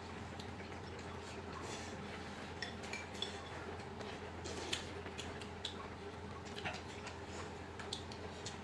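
Utensils clinking and tapping against dishes and bowls during a meal: scattered light clicks and a few brief ringing clinks, over a steady low hum.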